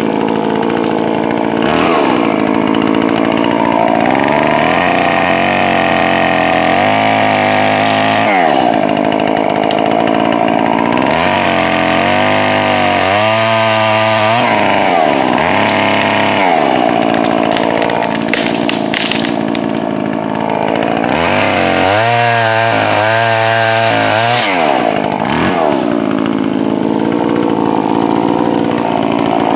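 Poulan Pro 4620 two-stroke chainsaw running at high revs and cutting wood: several times the engine pitch sags as the chain loads up in the cut, then climbs back as it frees. It has a new piston and is being run rich for break-in.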